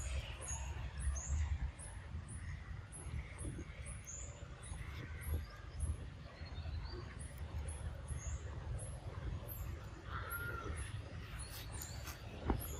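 Outdoor ambience: a small bird chirping over and over at a very high pitch, about two short chirps a second, over a low rumble. About ten seconds in, a brief call rises and falls, and a sharp click comes near the end.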